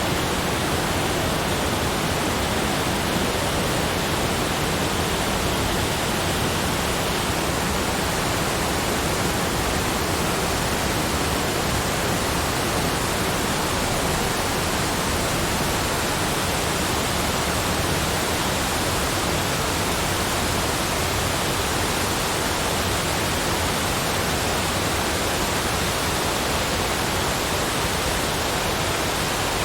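Steady, unchanging rushing noise, even from low to high pitches, with no separate events.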